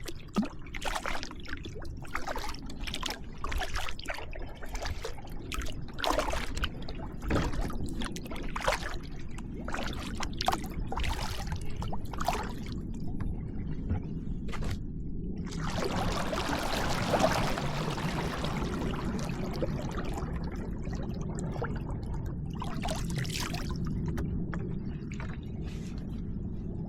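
Kayak paddling: water splashing and dripping off the paddle blades with each stroke, about once a second. About halfway through, a longer rush of water lasts several seconds before the strokes return.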